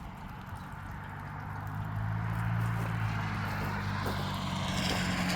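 A car approaching on the road: a low engine hum and tyre noise growing steadily louder.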